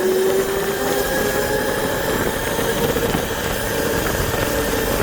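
Dirt bike engine running steadily at low revs, its hum drifting slightly up in pitch in the first second.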